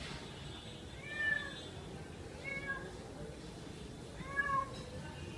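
Cat making three short, arching meow-like calls, about a second and a half apart, as it drinks milk.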